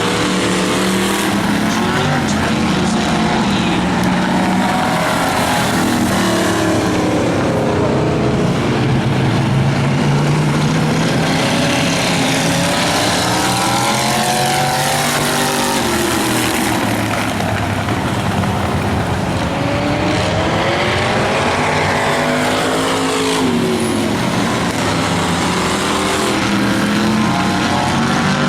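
Engines of several demolition race cars running hard around a speedway oval, their pitch rising and falling again and again as they rev and pass by.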